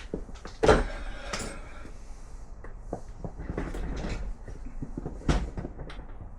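Hand tools and metal engine parts being handled: a run of clanks, knocks and scrapes, with loud knocks about a second in and again about five seconds in.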